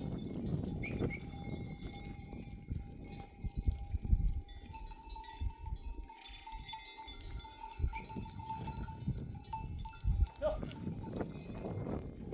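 Sheep bells on a moving flock, clanking and ringing with several pitches in a repeated jangle, over low rumbling and a few dull thumps.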